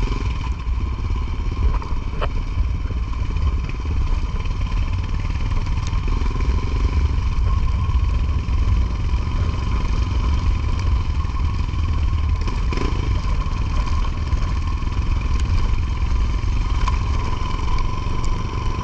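Motorcycle engine running steadily with a deep, continuous rumble and a few light clatters.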